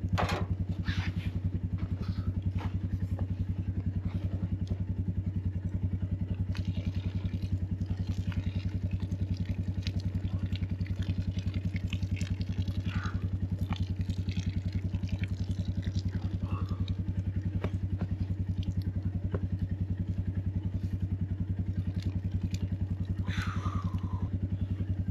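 An engine idling steadily with an even, rapid low pulse. A few faint clicks and short high falling calls sit over it, the clearest one near the end.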